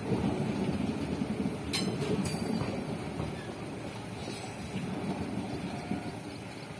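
Indian Railways express coaches rolling past as the train departs: a steady low rumble of wheels on the track, with two sharp clicks about two seconds in. The rumble slowly fades as the last coaches go by.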